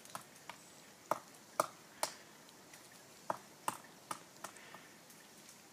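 Pileated woodpecker chiseling into a tree for insects: about ten sharp knocks of bill on wood at uneven intervals, not a steady drumroll.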